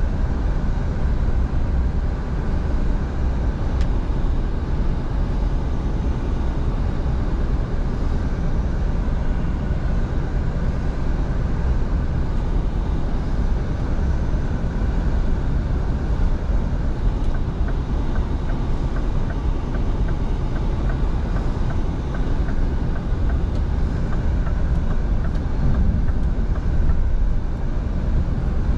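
Scania V8 truck driving at a steady speed: the engine's low running note mixed with road and tyre noise, even and unbroken.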